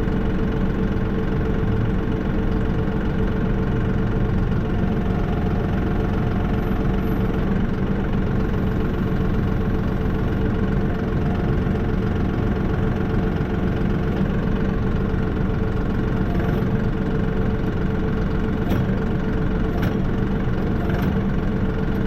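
John Deere 5075E tractor's diesel engine idling steadily, with a few light clicks near the end.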